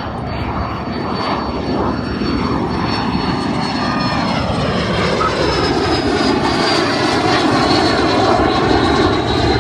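Small propeller airplane's piston engine running, growing steadily louder as the plane moves closer.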